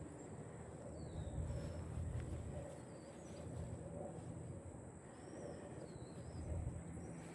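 Songbirds chirping faintly in the background, a few short calls scattered through, over a low steady rumble.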